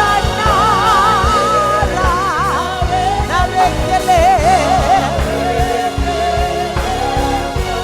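Gospel song: a singer's voice carrying a melody with wide vibrato over a band with a steady beat.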